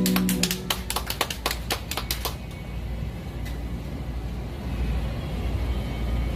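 A handful of listeners clapping briefly, sharp separate claps for about two seconds, as the last acoustic guitar chord dies away; then only a low street rumble.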